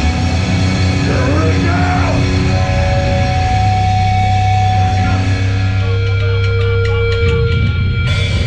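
Loud live heavy metal band playing: distorted guitar and drums, with long held notes.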